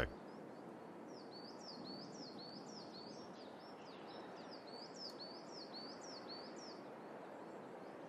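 A small songbird repeating a short, high chirp about twice a second over a steady hiss of forest ambience.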